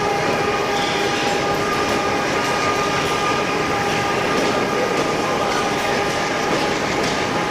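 Passenger train coaches rolling along the track past a station platform: a steady rumble of wheels on rails, with a steady hum of a few tones over it.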